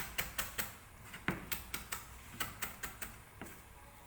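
Kitchen knife slicing through hard lemongrass stalks on a cutting board: sharp chops in quick runs of about five a second, with short breaks between runs.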